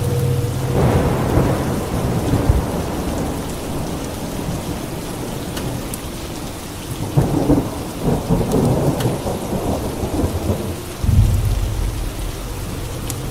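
Steady rain with thunder rumbling: one roll about a second in, a longer one from about seven seconds, and a deep low clap near eleven seconds.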